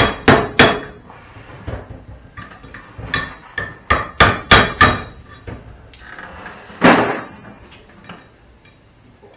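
Hammer blows on steel: a couple of quick strikes, then a run of about six in a row, then one heavier blow with a short ring about seven seconds in, knocking dross and slag off a freshly cut end.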